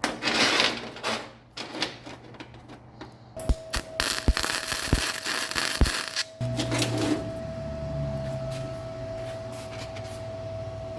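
A clatter of sharp knocks and clicks, then a steady low machine hum with a constant thin whine that starts about six seconds in.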